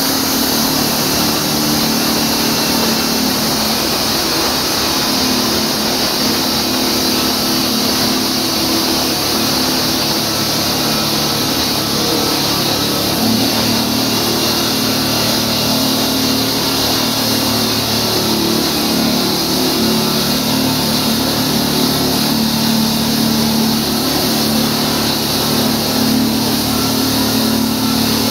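An engine running steadily at a constant speed under a loud, dense noise, with no change in pace.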